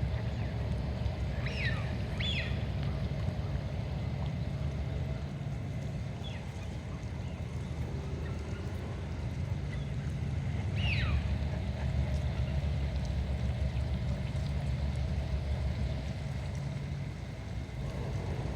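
Steady low rumble of wind and water, with a few short, high calls falling in pitch: two close together near the start and one about eleven seconds in.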